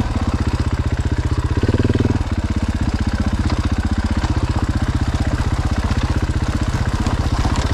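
Husqvarna FE 501 single-cylinder four-stroke dirt bike engine running at low revs with an even, fast pulse. It picks up briefly about two seconds in.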